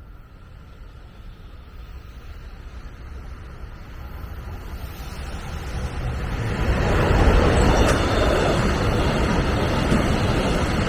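A train approaching, its running noise growing steadily louder over about seven seconds, then passing close by with loud, steady wheel-on-rail noise.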